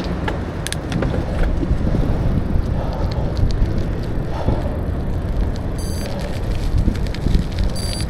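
Wind buffeting the microphone over tyre and road rumble while riding a bicycle, with scattered sharp clicks and rattles. A brief high metallic ring comes twice in the last few seconds.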